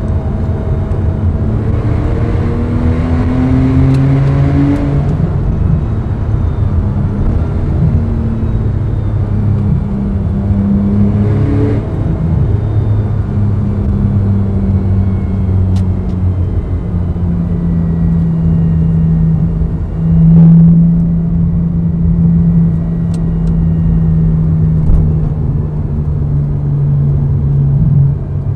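Porsche 997.2 Carrera 4S's 3.8-litre flat-six engine running through an exhaust with both side mufflers removed. The note climbs in pitch a couple of times in the first half, then holds a steady low drone, swelling briefly about two thirds of the way through.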